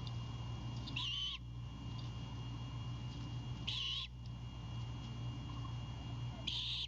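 Great horned owlet giving three short, high, rasping screeches a few seconds apart, its begging call. A steady low hum runs underneath.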